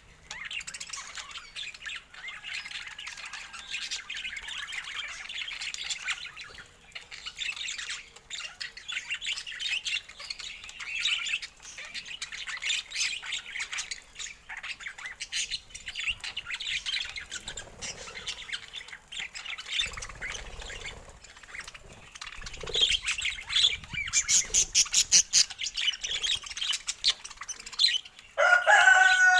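Budgerigars chattering and warbling: a continuous run of short chirps that grows louder toward the end, with a louder, drawn-out squawk just before the close.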